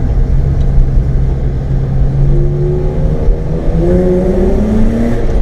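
BMW E36's straight-piped 2.8-litre M52 straight-six exhaust. It holds a steady note for about two seconds, then rises steadily in pitch as the engine revs up under acceleration.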